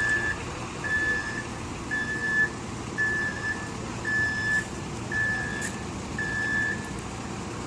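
Truck's reversing alarm beeping about once a second, seven beeps, over the low running of its engine; the beeping stops near the end as the truck stops backing up.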